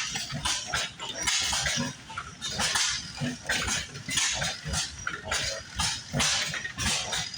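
Old engines running, their exhaust puffing in quick, uneven beats with low thumps under each puff.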